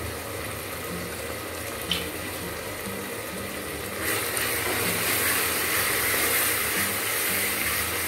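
Onion and tomato masala frying in oil in a steel pot, a steady sizzle that grows louder about four seconds in as it is stirred. A single sharp click near two seconds in.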